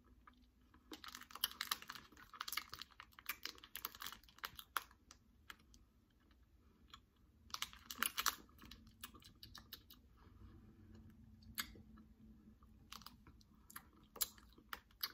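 Close-up chewing of a Gushers gummy fruit snack: wet clicking mouth sounds coming in short flurries with quieter pauses between.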